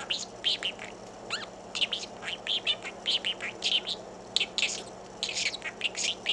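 Budgerigar chattering: a rapid, continuous stream of short high chirps and warbles.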